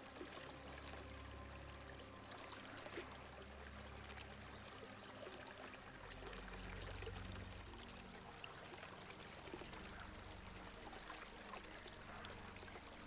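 Faint, steady trickle of a small stream flowing over stones.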